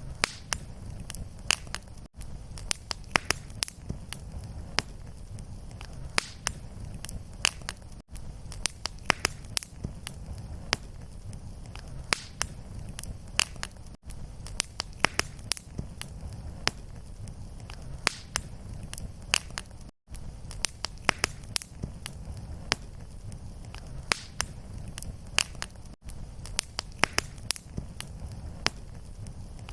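Fireplace fire crackling, with frequent irregular sharp pops and snaps over a steady low rumble of flame. The sound drops out for an instant about every six seconds, where the loop repeats.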